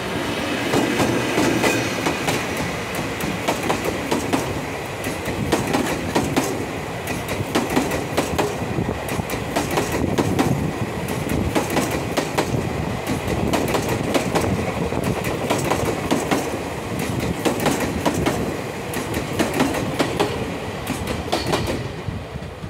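Chichibu Railway Deki 505 electric locomotive passing close by, followed by the towed Tobu 50090-series train cars rolling past, their wheels clacking over the rail joints. The last car passes near the end.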